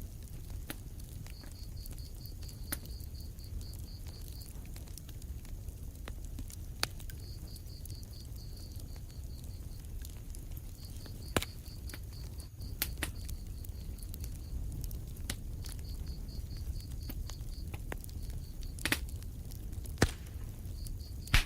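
Wood fire crackling in a fireplace: a steady low rumble of flames with scattered sharp pops, a few louder ones in the second half. A high, fast, cricket-like chirping trill repeats in runs of a few seconds.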